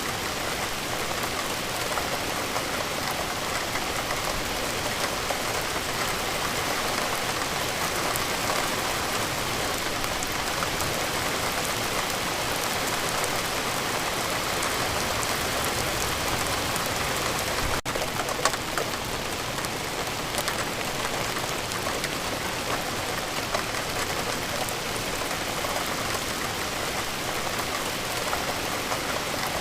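Steady rain falling, an even hiss with scattered drop taps. It is broken by a brief dropout about two-thirds of the way through, followed by a sharp tap.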